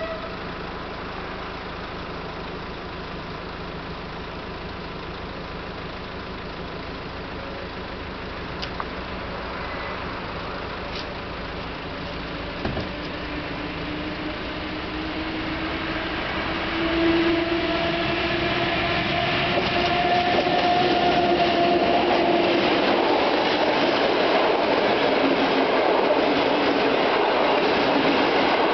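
A steady low hum for the first half, then an electric passenger train approaching the level crossing, growing louder from about halfway through, and passing with the loud rolling noise of its wheels on the rails.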